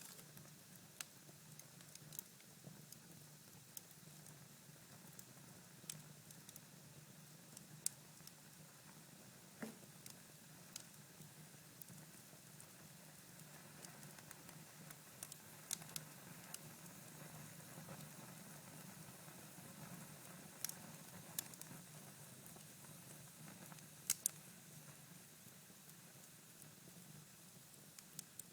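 Cherry-wood fire in a fireplace, burning down to embers and crackling faintly: sparse sharp pops over a soft hiss, with a quick pair of louder pops near the end.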